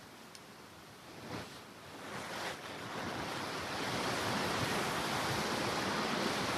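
Steady rushing of river water, building over the first few seconds and then holding at an even level.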